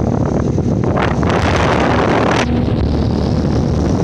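Carrier Sentry heat pump's outdoor condenser fan motor running with a loud, angry-sounding drone, its air stream buffeting the microphone, with a stronger rush of wind about a second in that lasts about a second.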